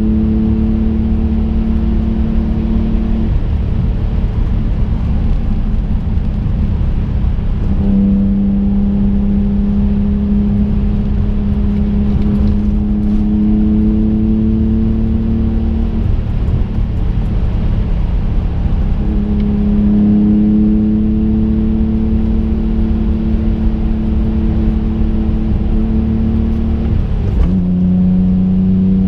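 Twin-turbo V6 of a 2005 Infiniti G35 coupe heard from inside the cabin: a steady engine drone under throttle that slowly rises in pitch, drops away for a few seconds twice when the throttle is eased, and dips briefly near the end before coming back. Tyre and road rumble runs underneath.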